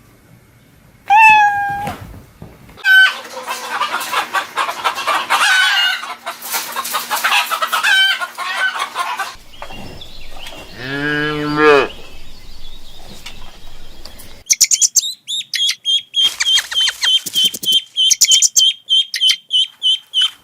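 Several animal calls one after another: domestic fowl clucking, with flapping, then a single rising-and-falling call, and in the last few seconds a fast run of high, repeated chirps.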